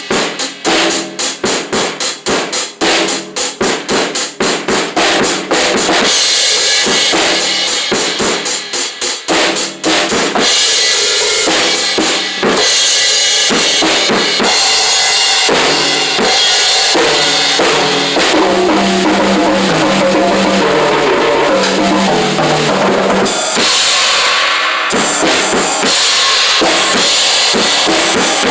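Drum kit played hard along with rock music, with a run of rapid, evenly spaced hits for about the first ten seconds before it settles into a dense, steady full-band groove.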